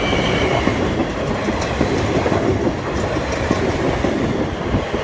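Class 444 Desiro electric multiple unit running over the level crossing: a steady loud rumble, with a few clicks of the wheels over rail joints.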